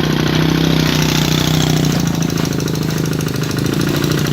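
Rice-paddy plowing tractor's engine running steadily, with a rapid, even knocking beat.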